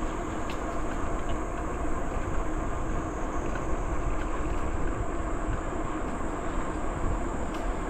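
Steady rush of wind on the microphone and the hum of bicycle tyres rolling along a trail while riding.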